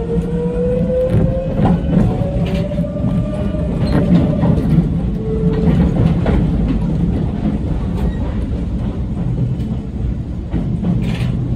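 Yoro Railway electric train running on the rails, heard from the driver's cab: a steady rumble of wheels on track with clicks over rail joints, and a motor whine that rises over the first couple of seconds as the train picks up speed, then holds steady.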